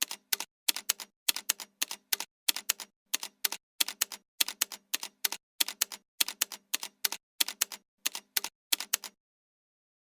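Typing sound effect: rapid keystroke clicks in short clusters of two to four, stopping about nine seconds in.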